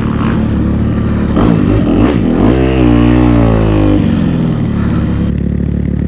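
Kawasaki KX250F dirt bike's single-cylinder four-stroke engine, fitted with a 290 big-bore kit, being ridden. It revs up about two and a half seconds in, holds, then drops off suddenly about four seconds in and settles to a lower, steadier note.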